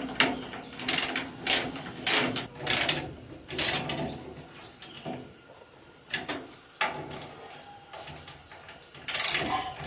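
A run of short mechanical clanks and clicks from metal parts or tools being worked, irregularly spaced about half a second to a second apart, thinning out in the middle and coming thicker near the end.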